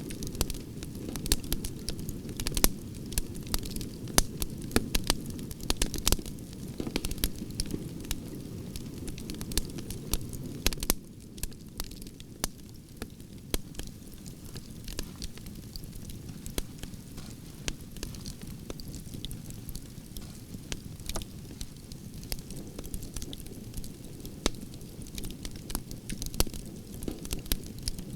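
Branches burning in a campfire: irregular sharp crackles and pops over a steady low rush of flames. The low rush drops a little about a third of the way in.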